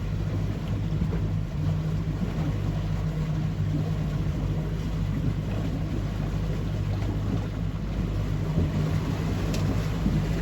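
Tour boat's motor running steadily under way, a low even hum with a steady rushing noise over it.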